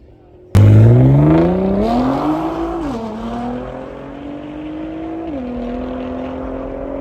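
A car engine accelerating hard through the gears: it starts abruptly about half a second in, climbs in pitch, drops at an upshift a little under three seconds in, climbs again and drops at a second upshift just past five seconds, then keeps pulling.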